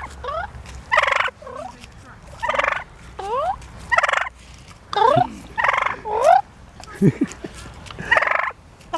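Turkeys gobbling over and over, a rattling call about once a second, with short rising notes in between.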